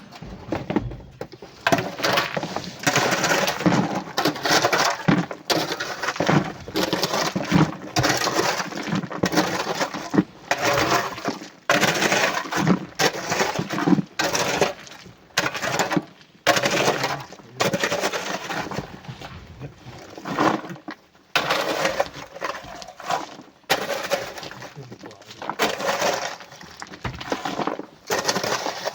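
Sand and coral rock being loaded into a truck: a long run of irregular crunching and clattering impacts, several to the second, with short pauses between loads.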